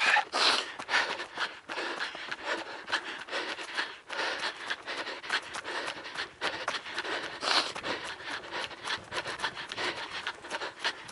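A trail runner's footsteps at a quick, regular pace, about two to three strides a second, with hard, rasping breathing.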